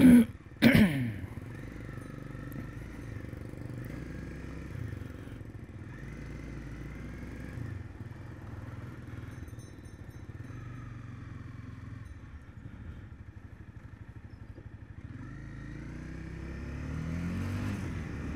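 Honda CB300F's single-cylinder engine running steadily as the motorcycle is ridden, a low drone. It rises in pitch and gets louder over the last few seconds as it picks up revs. A brief loud noise comes about a second in.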